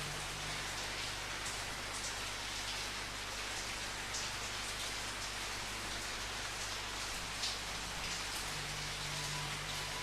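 Steady rainfall hissing evenly, with a few louder single drops standing out now and then.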